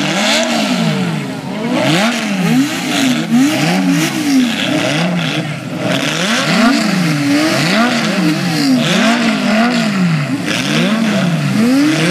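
Several car engines revved hard at once, throttles blipped up and down over and over so the pitch keeps rising and falling about once a second, the revs of different cars overlapping.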